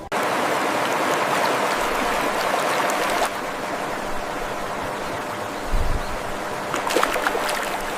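Steady rushing noise like running water, dropping slightly about three seconds in, with a low bump near six seconds and a few faint clicks about a second later; it cuts off suddenly at the end.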